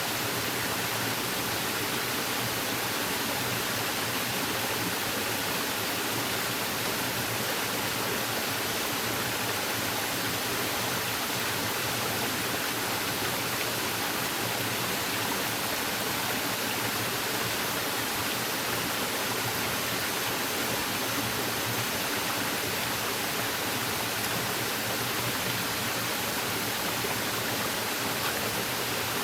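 Steady rushing of water, an even hiss with no single drops, knocks or changes standing out.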